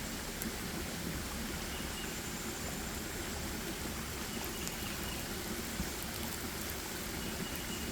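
A stream of flowing water rushing steadily. A few faint short high whistles come through it about two seconds in, around the middle and near the end.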